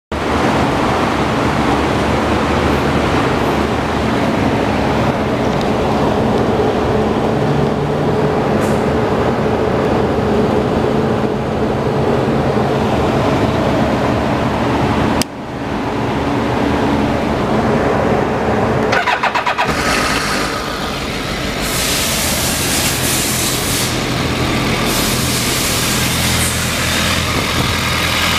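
BMW K1200S inline-four motorcycle engine running after start-up. About 15 seconds in the sound drops suddenly and comes straight back, and around 19 to 20 seconds a rapid pulsing gives way to a brighter, hissier tone.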